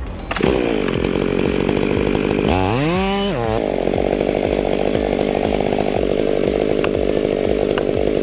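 Chainsaw starts up sharply, revs up and back down once, then runs steadily at high speed.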